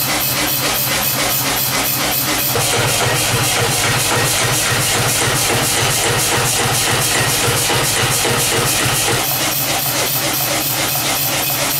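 Blacksmith's workshop machinery running steadily with a regular pulse about four times a second. It grows heavier and lower from about two and a half seconds in until about nine seconds.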